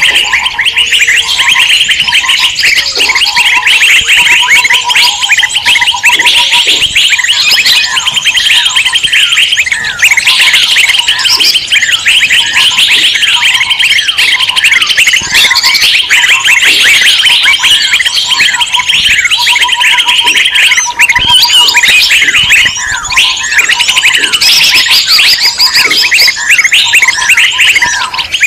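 Dense, loud chatter of many small songbirds calling at once, a continuous mass of rapid chirps from a bird-luring recording. A lower pulsing trill comes and goes beneath the chirping.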